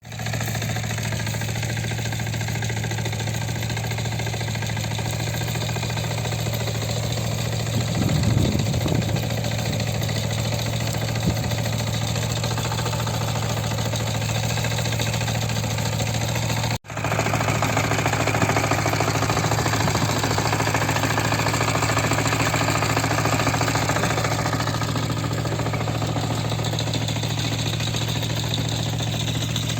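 Motor Sich walk-behind tractor's engine running steadily, with a short cut-out a little past halfway.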